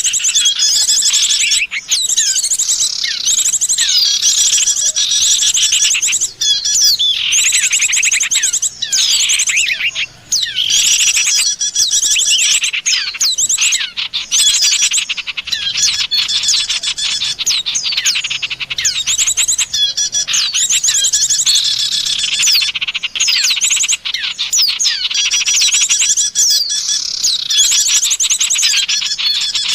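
Bird-lure recording of many small songbirds chattering at once: dense, overlapping fast chirps and trills, loud and nearly unbroken, with only brief gaps.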